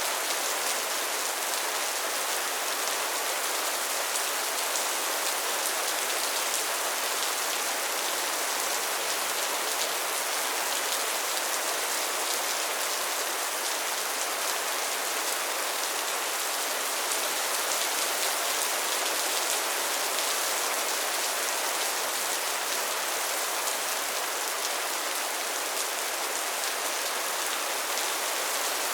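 Steady rain falling: an even, unbroken hiss of rainfall with a fine patter of drops, at the same intensity throughout.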